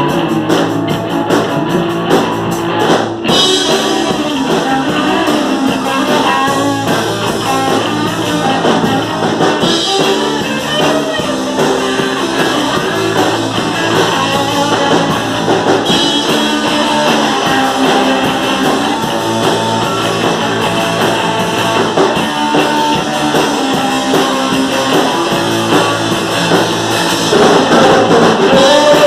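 Rock band playing live, with electric guitar and drum kit in an instrumental passage. There is a brief break about three seconds in, and it gets louder near the end.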